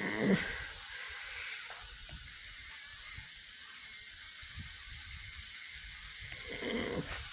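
Steady hiss of air noise on an Airbus A320 flight deck, with brief muffled sounds about a third of a second in and again near the end.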